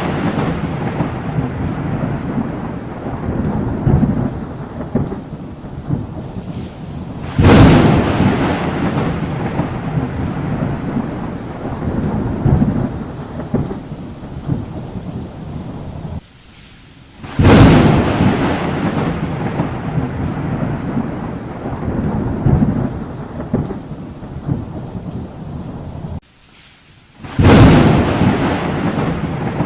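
Thunderstorm: three thunderclaps about ten seconds apart, each a sudden crack that trails off into a long low rumble, over steady rain. Just before the second and third claps the sound drops briefly to near quiet.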